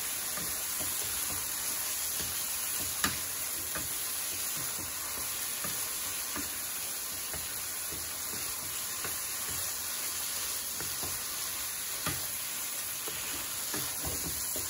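Chicken, tomato masala and whole green chilies sizzling in a nonstick frying pan as a wooden spatula stirs them, with a steady hiss and the spatula knocking and scraping against the pan now and then, the sharpest knock about three seconds in.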